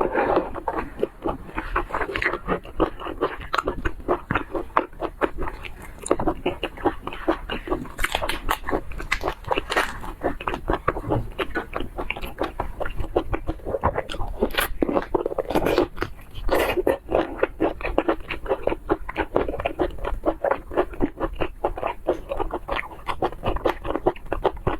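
Close-up mouth sounds of eating seafood: biting and chewing, with crunching and a dense run of quick, irregular clicks.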